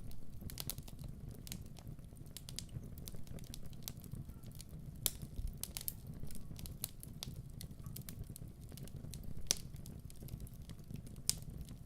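Wood fire crackling in a fireplace: irregular sharp pops and snaps over a low, steady rumble of flames, with a few louder pops about five, nine and a half and eleven seconds in.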